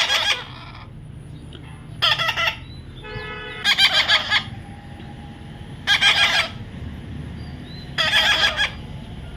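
A parrot screeching in loud, harsh calls, one about every two seconds, five in all.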